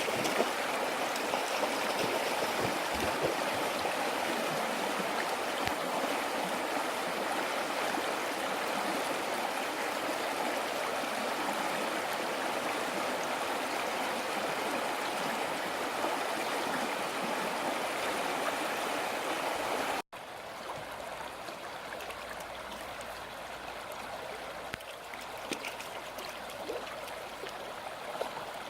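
Water of a seasonal arroyo running, a steady rushing flow. About two-thirds of the way through it cuts to a quieter, lighter stretch of flowing water.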